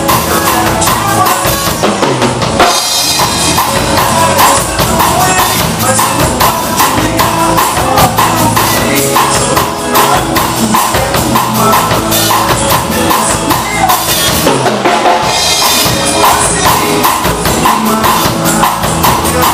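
Drum kit played along to a recorded song, with bass drum, snare and rimshots in a steady beat over the song's other instruments.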